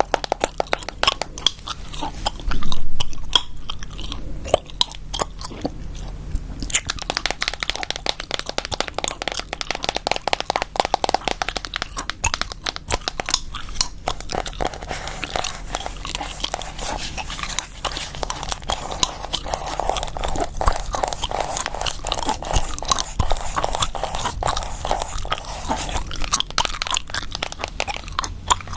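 Close-miked gum chewing with a dense run of sharp, rapid clicks and taps, and a brief louder swell about three seconds in.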